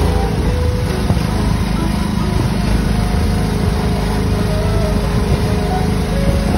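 Small gasoline engine of an Autopia ride car running steadily as the car drives along its track.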